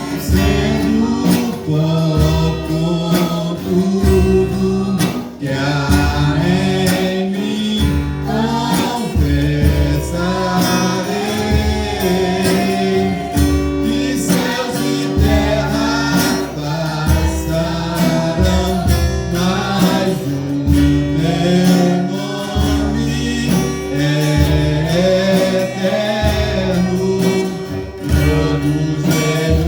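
Gospel worship song: voices singing together over guitar, with a steady repeating bass line underneath.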